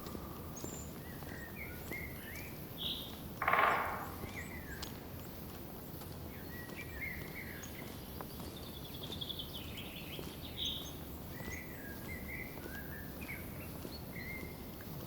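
Several songbirds chirping and calling over a steady low background hiss, with a quick falling trill about two-thirds of the way in. A short, loud rustling burst comes about three and a half seconds in.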